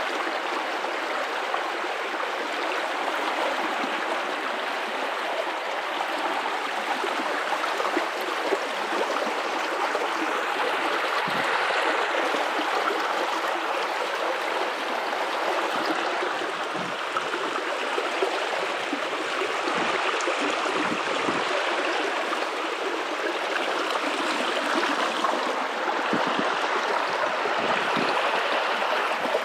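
River water running steadily, a continuous even rush of flowing water with no other sound standing out.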